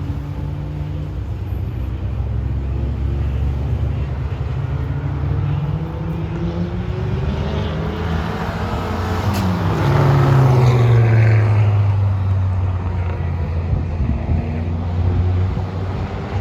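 Race car engine at high revs on a track, building as it approaches. It passes loudest about ten seconds in with a sharp drop in pitch, then fades as it moves away.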